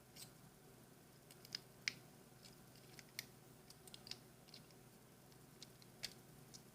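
Thin wire being bent and handled, giving faint scattered clicks and ticks at irregular intervals, the sharpest about two seconds in.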